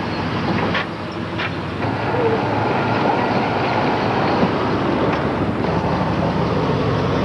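A car engine running with a steady rumble, growing a little louder about two seconds in, with a couple of sharp clicks near the start.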